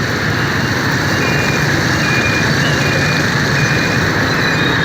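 Steady wind and engine noise of a motorbike riding through city traffic. A faint electronic beep repeats about once every two-thirds of a second, starting about a second in and stopping near the end.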